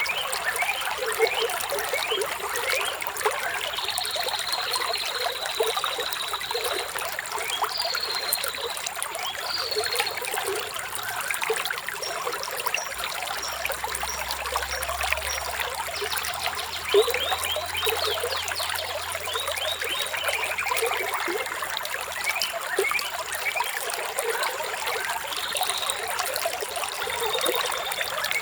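Shallow flowing water trickling and bubbling steadily, with birds calling over it in thin high whistles. One whistle is held for a couple of seconds a few seconds in, and a falling call comes past the middle.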